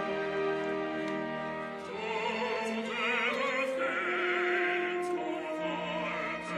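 Opera music: instruments hold sustained chords, then about two seconds in a trained operatic voice enters, singing long notes with wide vibrato over the accompaniment.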